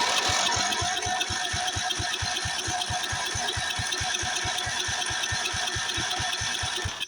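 Electric starter cranking a 13.5 hp Briggs & Stratton overhead-valve riding-mower engine with a fast, even chugging rhythm for about seven seconds, then cutting off suddenly near the end without the engine catching. The owner takes the failure to start for the tank being low on fuel.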